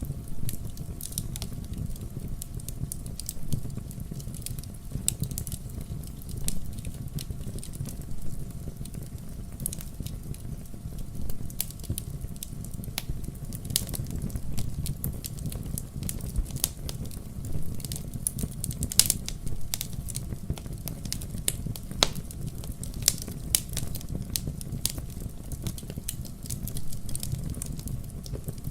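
Wood fire burning in a fireplace: a steady low rumble of flame with frequent irregular crackles and sharp pops throughout.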